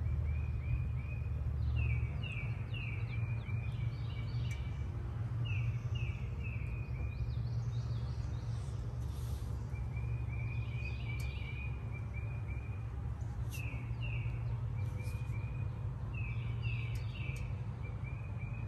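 A songbird singing phrases of quick, falling whistled notes, several in a row, with a new phrase every few seconds, over a steady low rumble.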